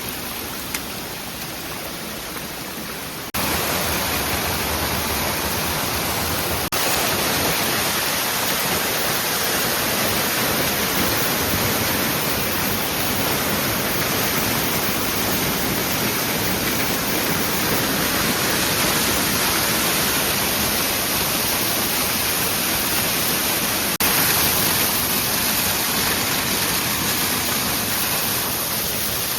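Mountain stream water rushing steadily over rocks. It jumps suddenly louder about three seconds in and again near the end.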